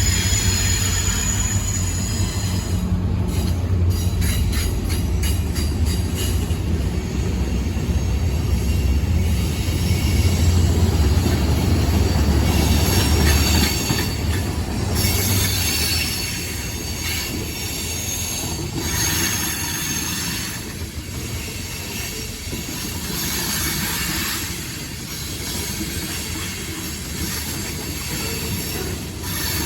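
A train rolling past with its wheels squealing on the rails, over a heavy low rumble that eases off about halfway through.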